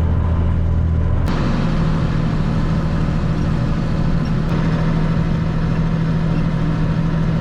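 Tractor engine running steadily under load, with a sharp click about a second in after which the low drone shifts to a higher pitch, and another faint click about four and a half seconds in.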